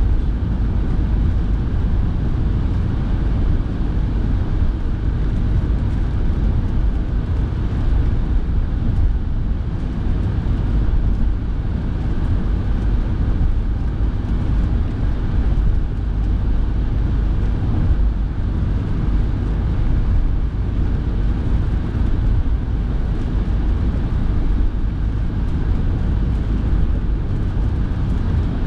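Steady rumble of a moving car heard from inside the cabin, with the heater fan blowing.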